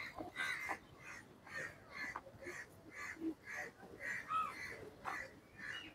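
Birds calling over and over, short calls about twice a second.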